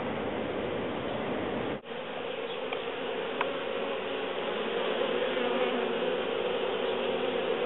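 A mass of honeybees buzzing around an opened hive, a steady hum with a brief break about two seconds in.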